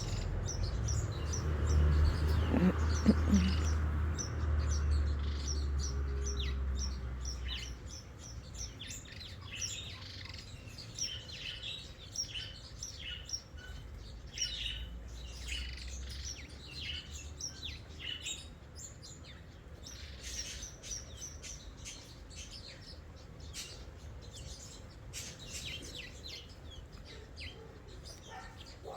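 Small birds chirping, many short high chirps coming in quick runs. For the first several seconds a louder low rumble lies under them, then fades.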